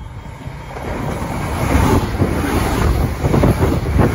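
Transperth electric suburban train approaching and running past alongside the platform, its rumble growing steadily louder as it nears.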